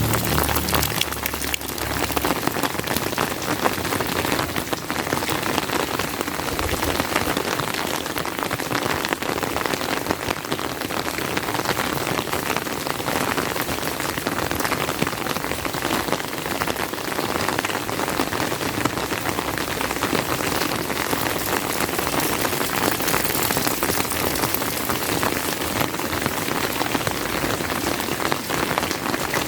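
Steady rain falling, a dense even hiss of countless small drops, with a brief low rumble that dies away in the first two seconds.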